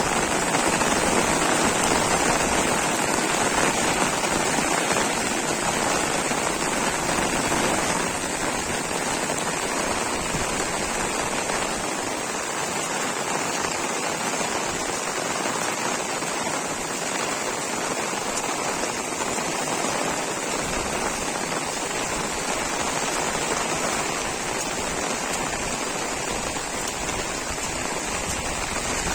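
Heavy rain falling steadily, a continuous hiss of rain on surfaces, a little louder for the first several seconds.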